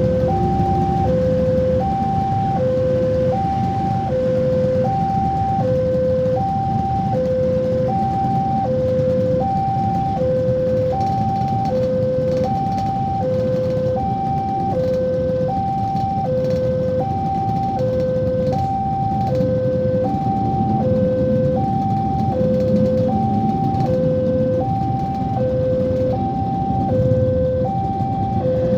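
Level crossing warning signal sounding: two electronic tones, one high and one low, alternating evenly about every two-thirds of a second, over a steady low rumble.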